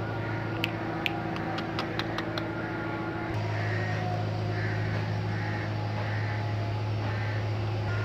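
A bird calling in a run of short repeated calls over a steady low hum, with a few sharp clicks in the first few seconds.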